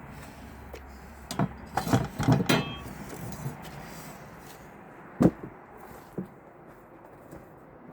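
A cluster of knocks and clinks from hard objects being handled, then a single sharp knock about five seconds in and a fainter one a second later.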